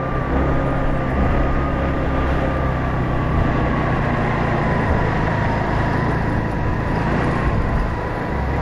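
Small motorcycle engine running steadily under way, its pitch slowly easing down, over a steady rush of road and wind noise.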